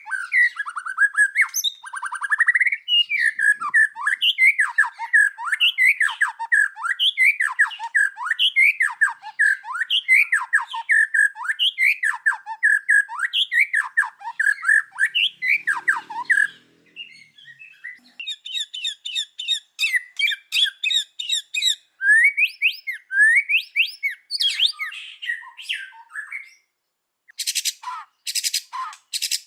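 White-rumped shama singing a fast, varied song of swooping whistled notes. The song thins out after about halfway, and a few sharp clicks come near the end.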